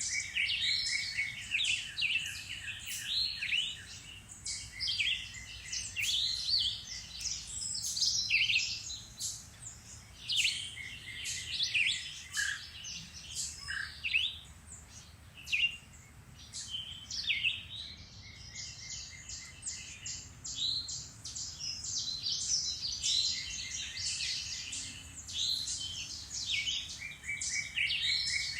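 Several songbirds singing and calling at once: a busy chorus of chirps and trills that thins out briefly around the middle.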